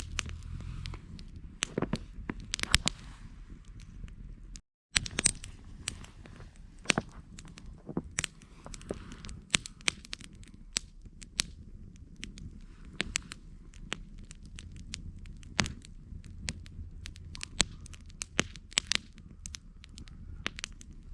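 Campfire crackling, with frequent irregular sharp pops over a low steady rush of burning wood. The sound cuts out completely for a moment about four and a half seconds in.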